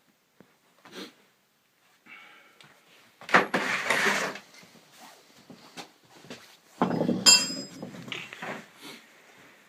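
Metal objects clattering and clanking: a loud clatter about three seconds in, then another a few seconds later with a ringing metallic clink, between small knocks and clicks.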